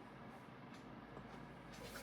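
Aidoo 1 kg direct-drive mini washing machine faintly running in its wash cycle: a low steady hum with a few light clicks.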